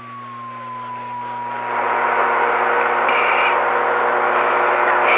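CB radio receiver static hiss with a steady whistling tone, the hiss swelling up about two seconds in. Two brief high chirps come over the noise.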